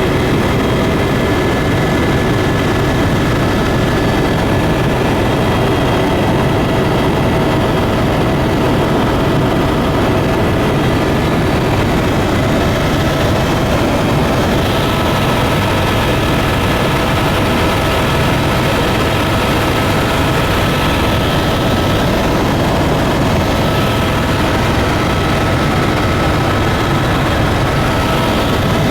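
Propeller airplane's engines running steadily in flight: a constant loud drone with a few steady tones over it, one more tone coming in about halfway through.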